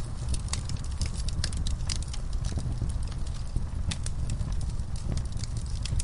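Wood fire burning in a fireplace, crackling with irregular sharp snaps and pops over a steady low rumble.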